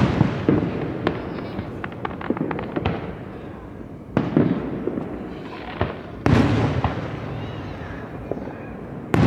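Aerial fireworks shells bursting: four sudden booms, right at the start, about four, six and nine seconds in, each dying away in a rumbling echo, with scattered crackling after the first one.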